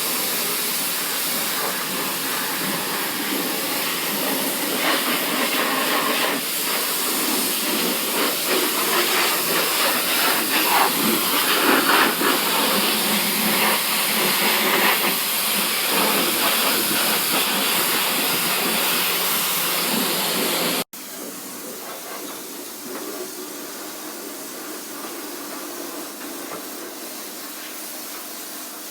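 High-pressure water spraying from a self-service car wash lance, a loud steady hiss. About two-thirds of the way through it cuts off suddenly and a quieter, duller hiss follows.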